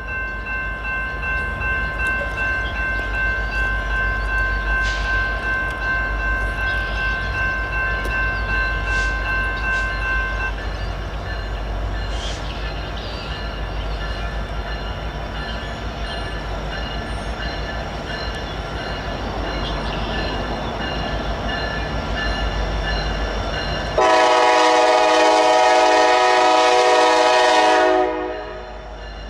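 Train running with a steady low rumble, then its horn sounding one long blast of about four seconds near the end. It stops briefly and starts again just as the sound runs out.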